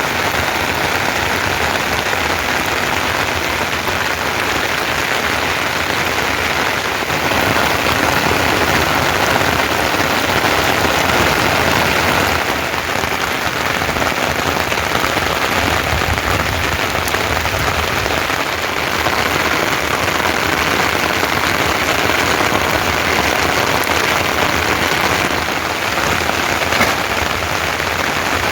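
Rain falling steadily, a loud, even hiss of dense drops.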